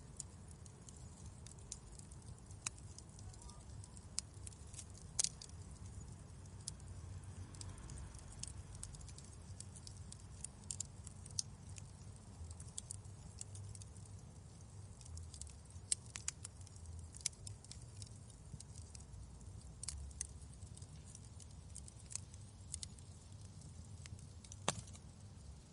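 Wood fire crackling, with irregular sharp pops and snaps over a low steady rumble; the loudest pops come about five seconds in, around sixteen seconds and near the end.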